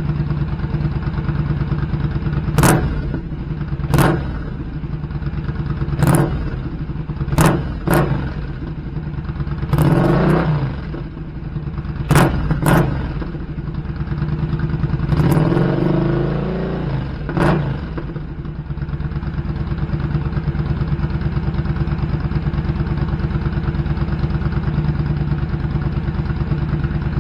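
Motorcycle engine running through a short 'cocktail shaker' exhaust with fibreglass-wrapped baffles. It idles steadily and is blipped sharply about ten times in the first two-thirds, with one longer rev, then settles back to idle.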